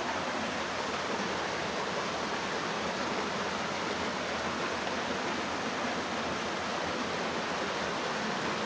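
Shallow creek water running steadily over rocks, a constant even rush.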